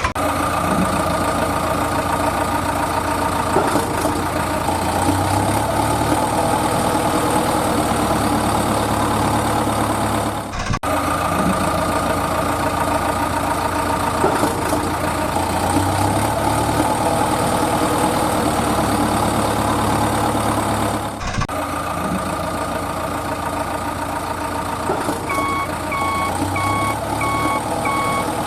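Heavy truck engine running steadily, a looped recording that repeats about every ten and a half seconds. Reversing beeps start near the end, about two a second.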